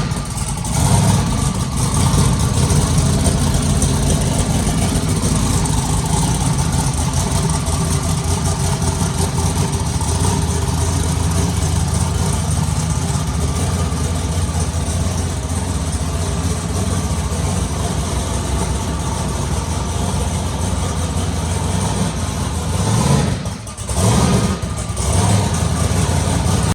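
Car engine idling steadily, with a couple of short revs near the end.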